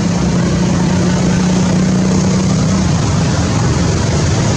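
Steady engine running close by over a constant rushing noise. The low engine hum drops away about three seconds in, and the rushing noise carries on.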